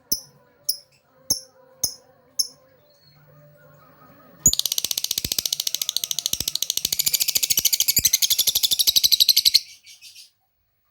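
Lovebird calling: a few sharp, high chirps about half a second apart, then after a short pause a loud, rapid chattering trill lasting about five seconds that stops suddenly.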